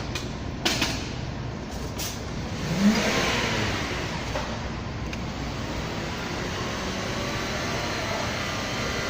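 A motor vehicle's engine running, swelling louder about three seconds in and easing off, with a couple of sharp clicks before it.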